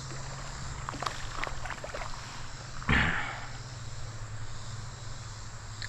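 A hooked smallmouth bass splashing at the surface as it is landed by hand, with scattered small splashes and clicks and one louder splash about three seconds in.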